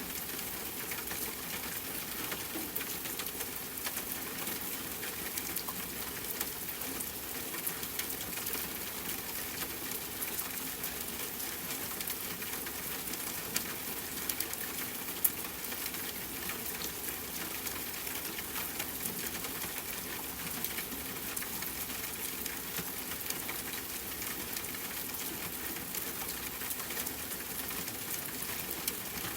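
Steady rainfall mixed with a crackling fireplace: a continuous hiss of rain under frequent small crackles, with a few louder pops, the sharpest about fifteen seconds in.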